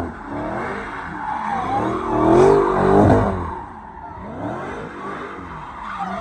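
Car engines revving, their pitch rising and falling, loudest about two to three seconds in.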